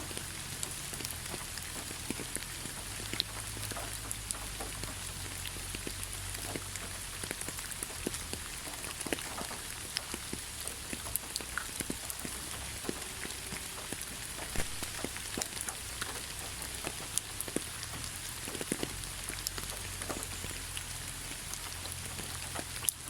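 Heavy rain falling steadily, a constant hiss dotted with the sharp ticks of individual drops hitting a surface.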